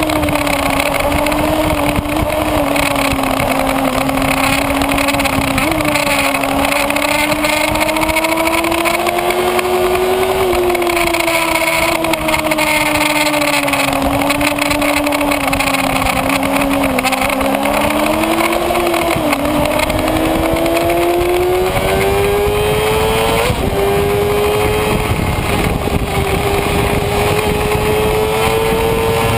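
Kawasaki Ninja ZX-6R's inline-four engine running hard at high revs, over a steady rush of wind noise. The engine pitch wavers up and down with throttle and gear changes for about twenty seconds, then climbs higher in a steady rise near the end.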